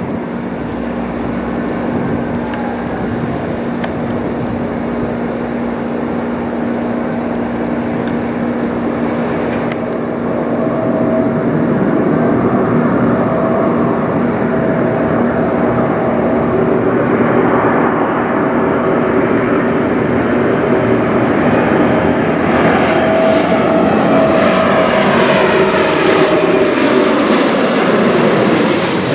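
Embraer E195-E2 jet airliner with Pratt & Whitney PW1900G geared turbofans flying low overhead. The engine whine and rush grow louder about halfway through, then the tones drop in pitch near the end as it passes.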